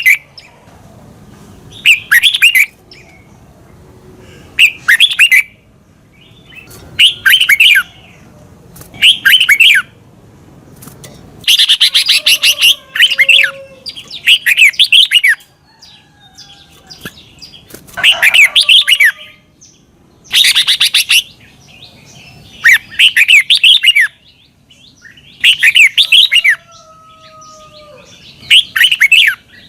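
Red-whiskered bulbul singing short, quick warbling phrases of rising and falling notes, one about every two seconds, with a longer pause near the middle.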